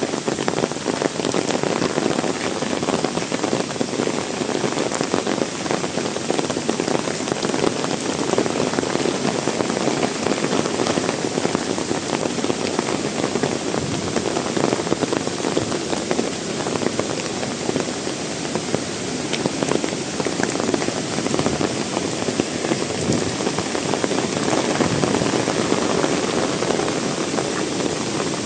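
Heavy rain falling steadily, a dense, loud patter of drops hitting wet surfaces.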